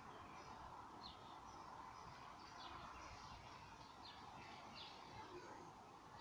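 Faint bird chirps: a few short, scattered calls over a steady low background hum.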